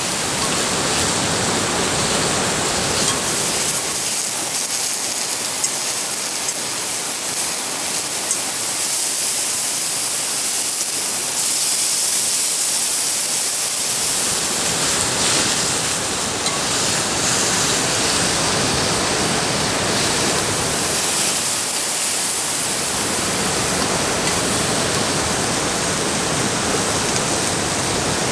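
Steak and mushrooms sizzling in a cast-iron skillet over a gas burner: a steady hiss.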